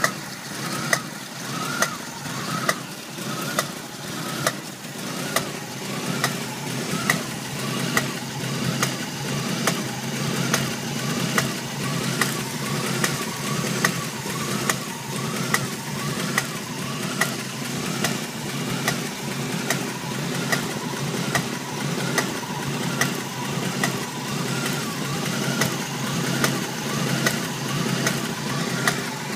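Jeep CJ7 engine idling steadily with a sharp knock repeating about once a second, strongest in the first few seconds.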